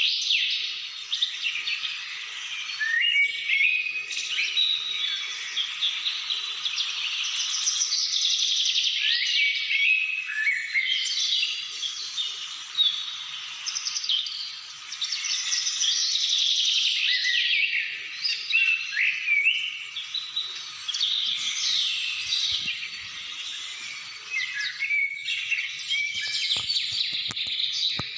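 Many birds singing and calling at once: a dense chorus of overlapping chirps, trills and short whistles that carries on without a break.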